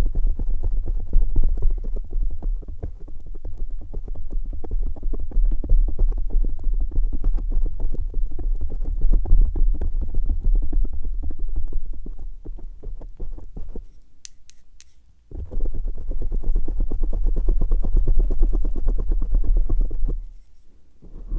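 Close-up sounds made directly on a microphone: a dense, crackly rubbing texture with a heavy low rumble, breaking off for about a second two-thirds of the way through, when a few sharp clicks sound.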